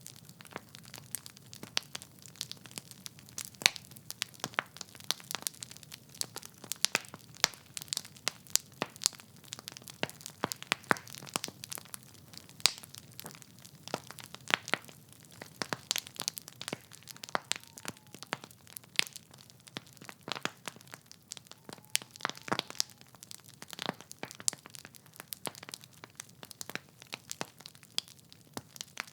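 Wood fire crackling in a fireplace: burning logs giving off many irregular sharp pops and snaps over a faint low steady background.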